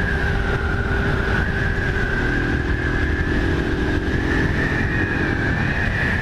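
Honda 160 single-cylinder motorcycle engine running at a steady cruising speed, with wind rumble on the microphone. A steady high whine that wavers slightly in pitch runs over the engine sound.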